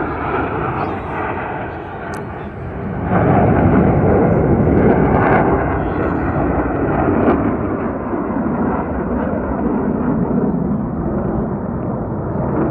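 Blue Angels F/A-18 jets roaring past overhead, a loud, crackling jet-engine rumble that swells about three seconds in and stays strong.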